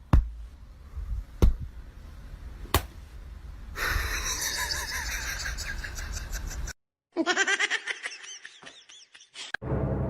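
A few sharp knocks, then people laughing, cut off suddenly and followed by more laughing.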